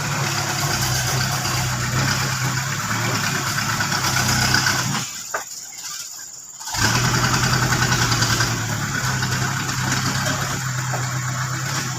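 Old dump truck's engine running under load. About five seconds in it falls away almost to nothing, then comes back strongly about a second and a half later.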